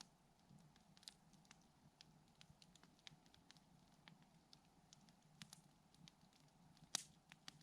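Campfire crackling faintly, irregular small pops and ticks, with one sharper snap about seven seconds in.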